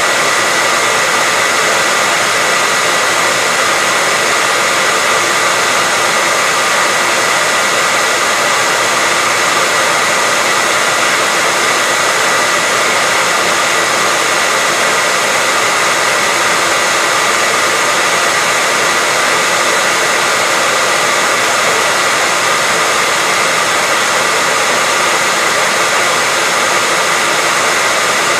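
Hairdryer running steadily: an even rush of blown air with a constant motor whine, no change in speed.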